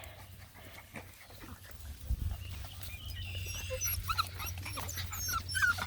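Beagle puppies whining and yipping: a scatter of short, high, curling cries that starts about four seconds in and grows busier near the end.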